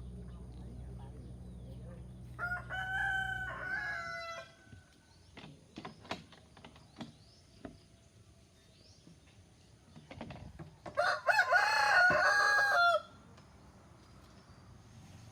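Rooster crowing twice, once about two and a half seconds in and again, louder, near eleven seconds, with a few short clucks and pecks in between.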